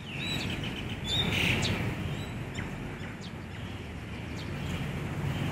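Small birds chirping in short, high calls, most of them in the first couple of seconds, over a steady low outdoor rumble.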